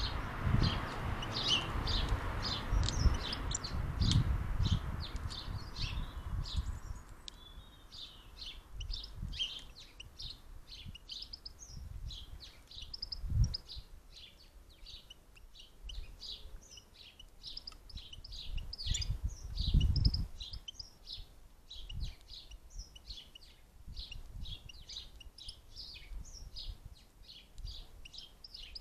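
European goldfinches twittering: a fast, near-continuous run of short high chirps. Low thumps and rumble with a hiss over the first several seconds, and single low thumps about 13 and 20 seconds in.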